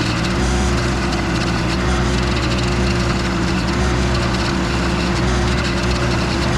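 Toro stump grinder attachment on a Case TL100 mini skid steer grinding into a tree stump: the machine's engine runs at a steady pitch under continuous wood-cutting noise.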